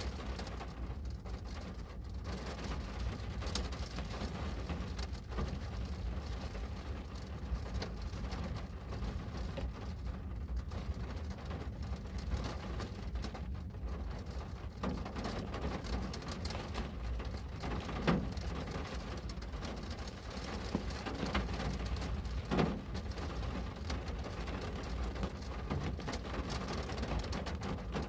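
Rain falling on a window pane: a steady hiss of rain with many small drop ticks and a low rumble underneath. Two louder drop taps come in the second half.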